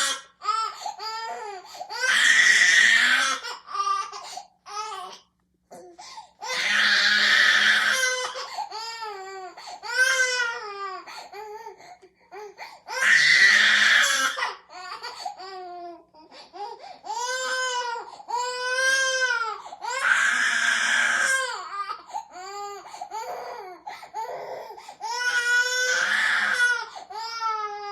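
A baby crying hard: long, loud, strained wails broken by short gasping sobs and whimpering cries between them.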